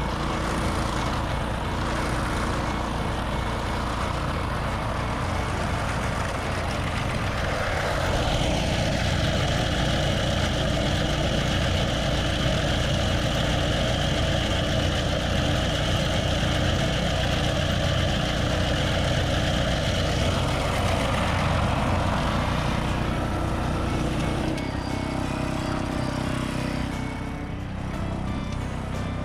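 Takakita SE511 walk-behind mini roll baler running, its small engine going steadily. About eight seconds in a higher whirring layer with a steady whine joins it and drops away again about two-thirds of the way through.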